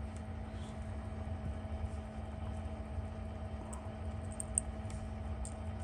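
Steady low background hum, with a few faint, light high clicks in the second half, as of small metal parts and tweezers being handled at the bench.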